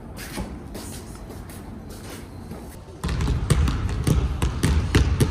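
Several basketballs bouncing on a hardwood court, starting suddenly about three seconds in: a quick, irregular run of overlapping thuds.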